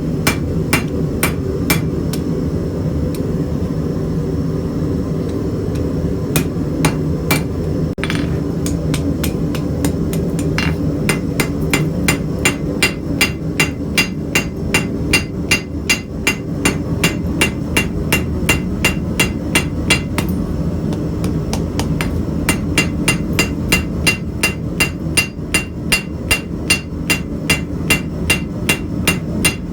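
Hand hammer striking hot steel on an anvil while a knife blade's bevel and tip are forged, each blow ringing from the anvil. The blows come singly with pauses at first, then settle into a steady run of about two to three blows a second, over a constant low hum.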